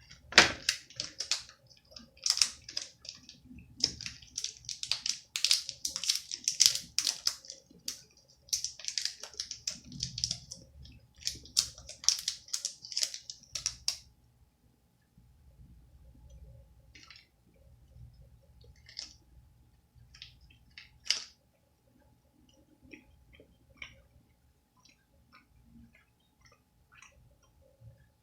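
Plastic wrapper of a chocolate crinkling loudly in dense crackles as it is unwrapped, stopping about halfway through; then quiet chewing with occasional soft mouth clicks.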